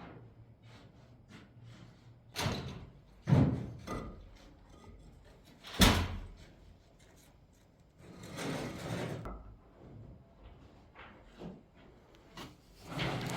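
Irregular knocks and thuds, the sharpest about six seconds in, with a longer scraping noise around eight to nine seconds.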